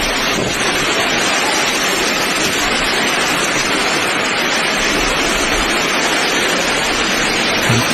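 Hailstorm: hail and rain pelting down in a dense, steady hiss.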